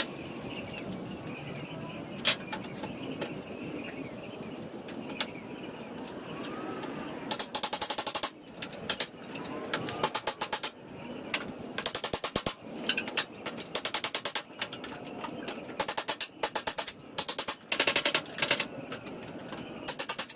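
A few single knocks, then from about a third of the way in, repeated short bursts of a fast, even mechanical clatter from a power tool working on pallet wood, each burst lasting about a second.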